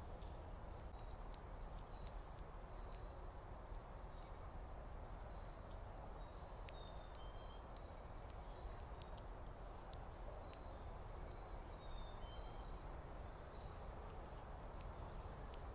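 Faint bird chirps and short high notes, a few in a row near the middle and again later, over a steady low rumble with scattered small ticks.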